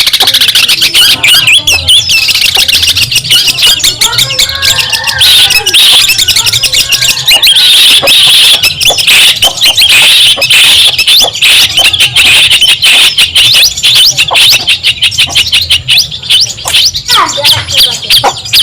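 Long-tailed shrike (cendet) singing a loud, unbroken stream of fast, scratchy chattering notes.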